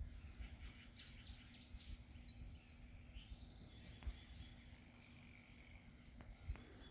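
Faint birdsong: short high chirps, several in quick succession in the first couple of seconds and a few more scattered later, over a faint low rumble.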